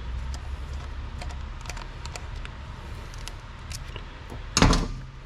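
Small scattered clicks and taps of hand tools and carburetor parts being handled, with one louder clunk about four and a half seconds in.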